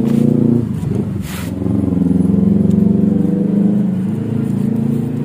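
A motor engine running steadily, dropping off briefly with a short sharp click about a second in before running on.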